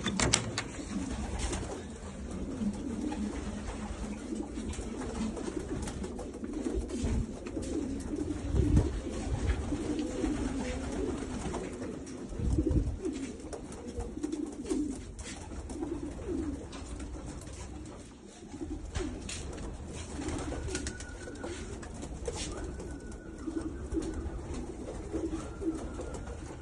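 Racing pigeons cooing continuously, many low wavering calls overlapping, with occasional sharp knocks and clicks.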